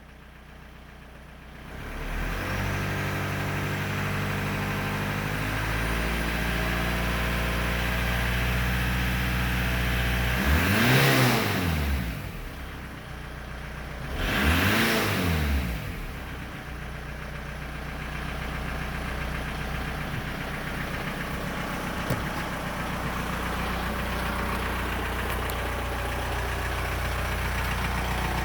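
2001 Volkswagen Beetle's 1.9 L TDI diesel engine starting about two seconds in and idling steadily. It is revved up and back down twice, then settles back to idle.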